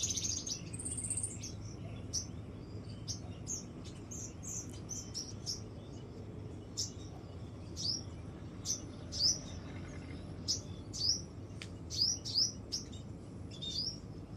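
Birds chirping: a series of short, high chirps, many falling in pitch, coming every second or so over a steady low background noise.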